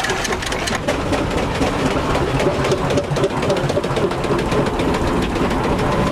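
Steam engine running with a rapid, steady mechanical clatter.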